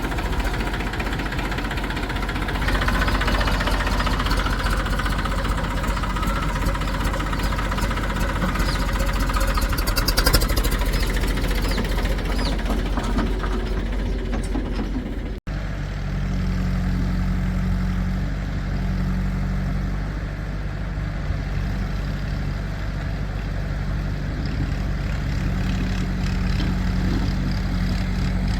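Diesel engines of a backhoe loader and tractors running at a worksite. A sudden break about halfway through, after which a diesel engine runs steadily with a low even hum.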